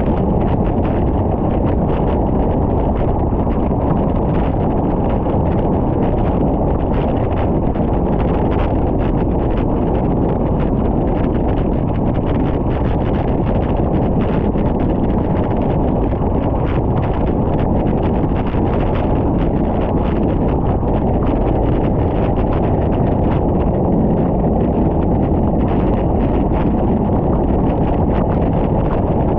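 Steady wind rushing over the microphone of a camera on a moving bicycle: a constant low rumble with no let-up.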